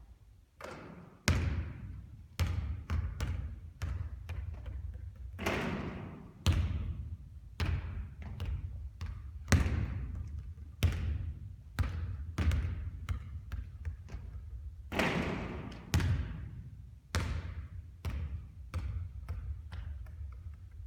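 Basketballs bouncing on a court floor: a steady run of thuds, about two a second and unevenly spaced. Two louder impacts, about five seconds in and near fifteen seconds, ring on longer.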